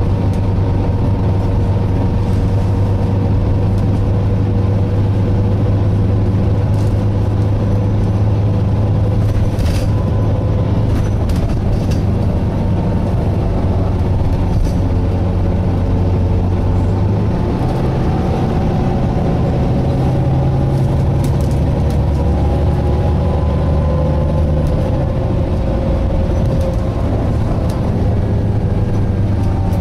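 Volvo B9TL double-decker bus heard from inside the saloon while under way: a steady engine and driveline drone with whining tones over it, which shift in pitch about two-thirds of the way through as the bus changes speed or gear. A few sharp clicks or rattles sound around a third of the way in.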